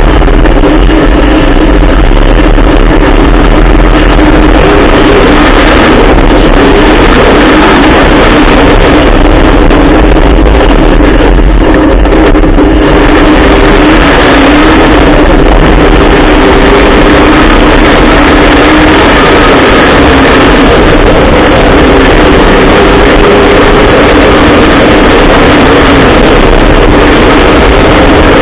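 Trophy truck's Dart 363 Coyote Ford V8 running loud and continuous, its pitch holding steady with small rises and dips in engine speed over a heavy low rumble.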